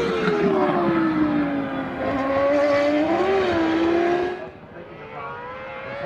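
A 2000-season Formula One car's V10 engine: the revs fall steadily, as under braking, with a short blip about three seconds in. The sound then drops away quieter, and the revs climb again near the end.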